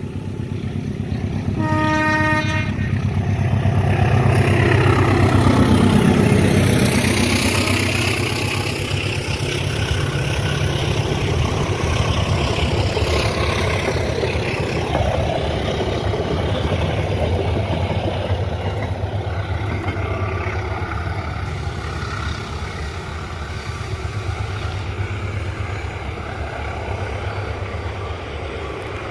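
A train sounds a short horn blast about two seconds in, then passes close by. The diesel locomotive's engine and the wheels swell to a loud rumble that peaks a few seconds later. The carriages keep rolling past with a steady rumble.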